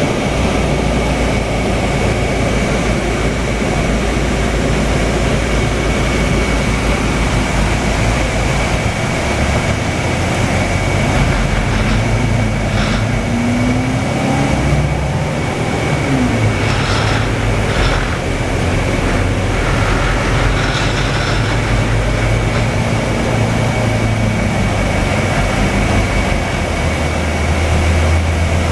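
Scania K320UA articulated city bus heard from inside while under way: steady engine and road noise with a constant high whine. The engine note drops back about a third of the way through, then rises and varies as the bus pulls on. A few short rattles come in the middle.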